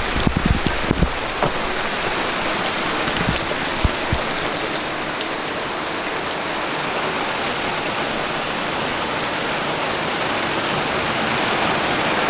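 Rain falling steadily, a dense even hiss, with a few sharp taps in the first few seconds.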